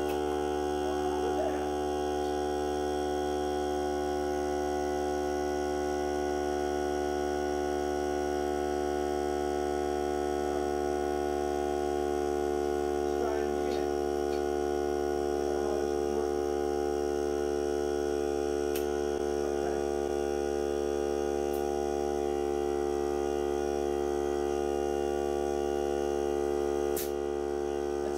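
Hart cordless air compressor running steadily, a constant pitched hum with a few faint clicks near the end.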